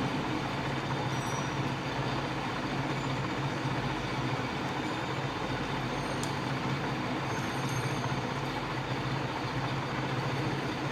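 Steady background noise: a constant low hum with an even hiss over it.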